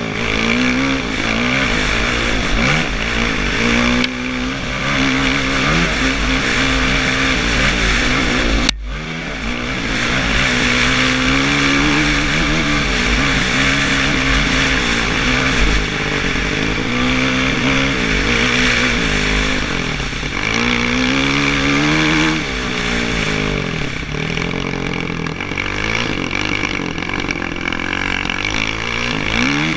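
Kawasaki KX450F single-cylinder four-stroke dirt bike engine revving hard, rising and falling again and again as it accelerates, shifts and comes off the throttle. There is a steady low rumble of wind on the camera microphone, and a sharp break about nine seconds in.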